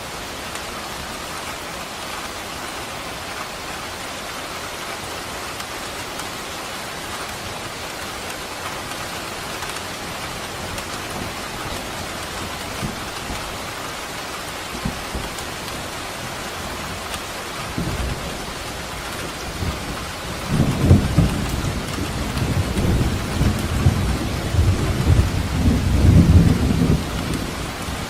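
Steady rain falling, with a long low rumble of thunder building about two-thirds of the way through, swelling and fading again near the end.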